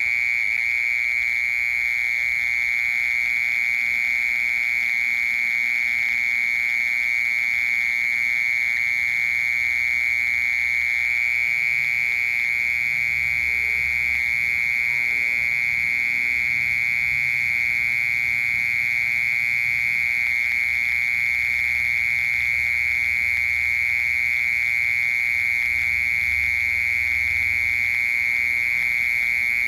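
Mole cricket singing an unbroken, steady, high-pitched trill.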